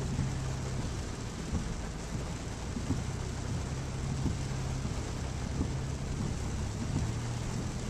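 Car engine and road noise heard from inside the cabin of a slowly moving car: a steady low hum under an even hiss, with a few soft low bumps.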